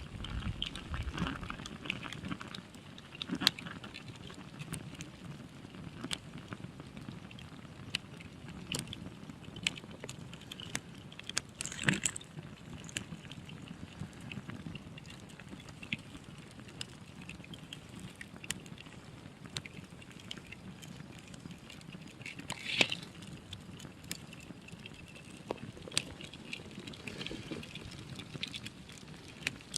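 Wood campfire crackling, with scattered sharp pops and a few louder snaps over a steady low rustle of burning.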